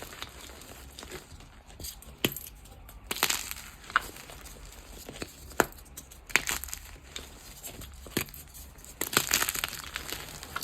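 Blocks of gym chalk being crushed and crumbled: short crunchy bursts with sharp crackles, coming in clusters every second or two, with a soft powdery rustle between.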